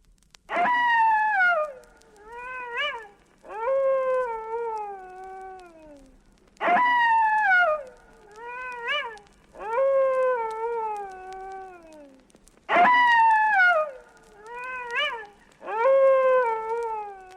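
Three werewolf howls from a horror sound-effects record, about six seconds apart. Each is a high falling wail, a short rising yelp, then a long falling howl.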